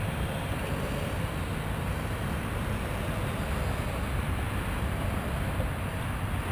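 Steady low rumbling wind noise buffeting the microphone, without let-up.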